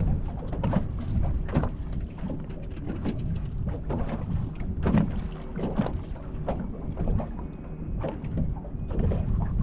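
Wind rumbling on the microphone, with irregular knocks and splashes of choppy water slapping against the hull of a small fishing boat.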